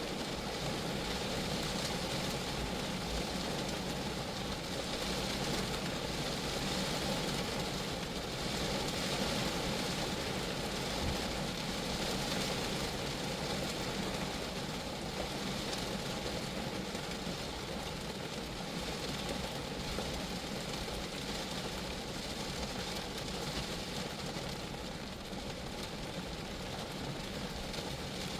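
Steady rain falling on a Geo Metro, an even wash of drops on the car with no breaks or single loud hits.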